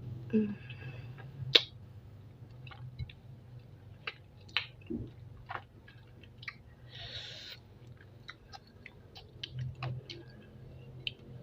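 A person chewing spicy chicken feet close to the microphone, with irregular sharp mouth clicks scattered through.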